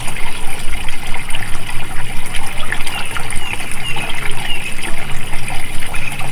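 Flowing water trickling and gurgling steadily, with a few short bird chirps over it in the middle.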